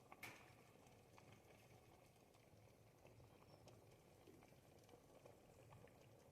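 Pot of ribollita, a thick Tuscan bread-and-vegetable soup, simmering: faint scattered pops and plops of bubbles bursting, with one sharper pop just after the start.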